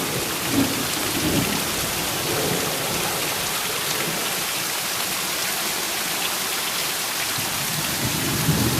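Heavy rain pouring down in a steady hiss during a thunderstorm, with brief low rumbles about half a second and a second and a half in, and again near the end.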